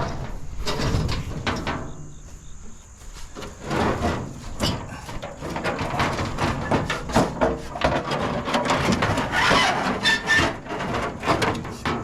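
Scrap metal being handled and loaded into a pickup bed: a busy, irregular run of clanks, knocks and scraping, thickest in the second half.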